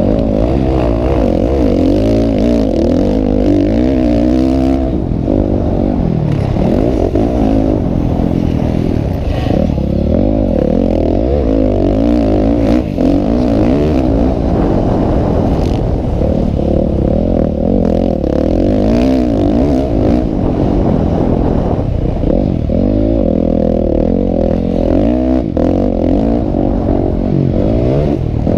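Several motocross motorcycles racing, their engines revving up and down and overlapping, in a constant loud drone.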